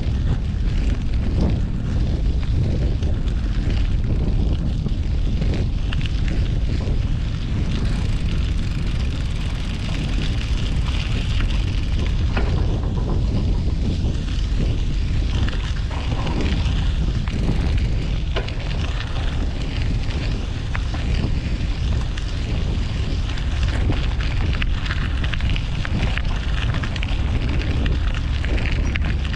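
Wind buffeting the microphone during a bicycle ride, a steady low rumble, over the noise of city street traffic.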